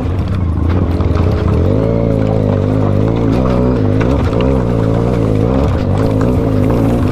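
Motorcycle engine running under changing throttle while riding off-road over loose stones, its pitch rising and falling over and over.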